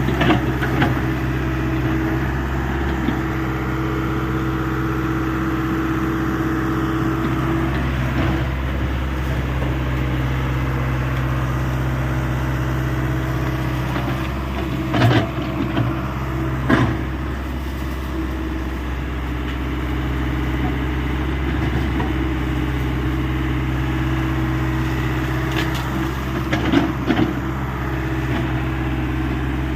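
Hyundai 85 excavator's diesel engine running steadily at a constant pitch. A few sharp knocks stand out over it: two about halfway through, a second and a half apart, and a short cluster near the end.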